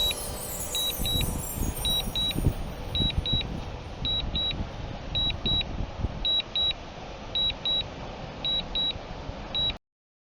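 Drone remote controller's low-battery warning: short high double beeps repeating about once a second, over a faint low rumble. The warning means the drone is about to fly itself home automatically. The sound cuts off abruptly shortly before the end.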